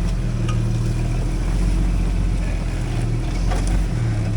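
Off-road 4x4's engine running steadily at low revs while crawling over rocks, its note shifting slightly near the end.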